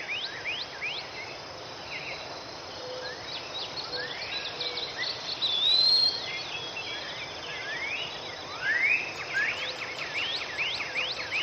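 Several small birds chirping and calling, many quick rising chirps overlapping, over a steady background hiss.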